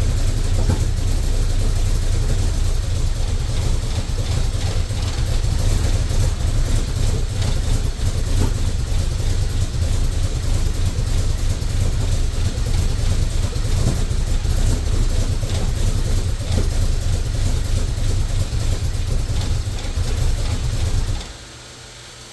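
Twin-turbo Ford 351 Windsor V8 running at low idle on its first start after a rebuild. It cuts off suddenly near the end, leaving a faint steady hiss.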